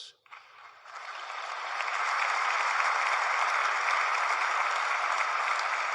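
Large audience applauding, the clapping swelling up about a second in and then holding steady.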